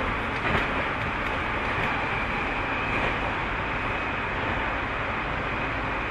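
Tobu 30000 series electric multiple unit running at speed, heard from inside the car. A steady rumble of wheels on rail, with a faint rail-joint click about half a second in.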